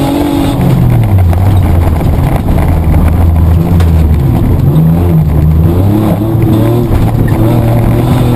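Mitsubishi Triton's petrol engine heard from inside the cabin under racing load, its pitch dropping about a second in, climbing around the middle, dipping and climbing again as throttle and gears change. Knocks and rattles from the rough off-road track run through it.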